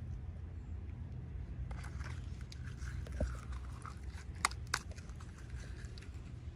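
Hands unboxing toy miniatures: faint crinkling and rustling of packaging with two sharp plastic clicks close together a little past the middle, over a steady low hum.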